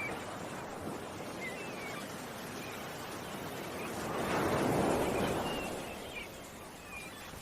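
Ocean waves washing on the shore, one wave swelling up and dying back about halfway through, with small birds chirping now and then.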